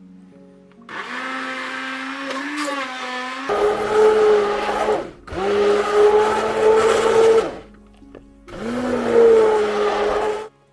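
Electric kitchen blender motor running in three bursts, each spinning up and then cutting off, its whine stepping up in pitch partway through the first burst.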